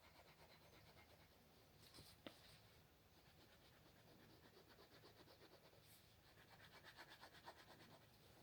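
Faint scratching strokes of drawing on a surface, coming in quick runs of about three or four a second in the second half, with a single small click about two seconds in.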